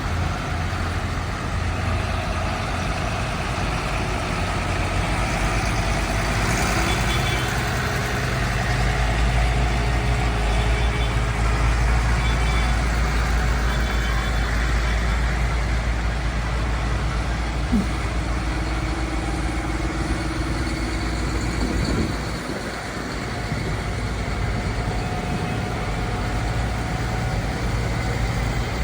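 Tractor engines running in a slow road convoy, a deep steady engine note that shifts as vehicles move past and drops away briefly about 22 seconds in.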